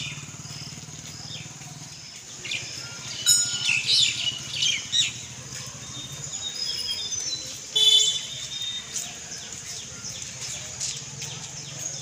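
Birds chirping and calling in quick, gliding notes, with the loudest flurries about four seconds in and again near eight seconds, over a low steady hum.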